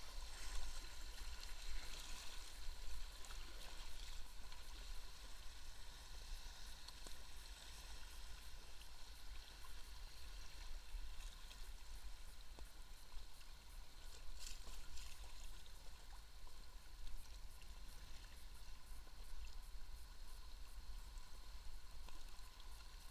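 Steady rush of river water flowing and splashing around a kayak, with a few brief brighter splashes about two thirds of the way through.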